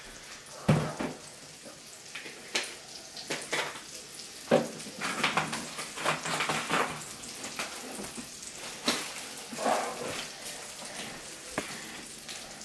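Turkey burger patty frying in butter in a skillet: a steady sizzle broken by irregular crackles and sharper pops.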